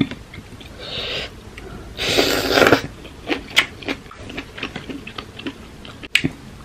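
Close-up eating sounds: a person chewing papaya salad with octopus, with many sharp mouth clicks and a louder crunch about two seconds in.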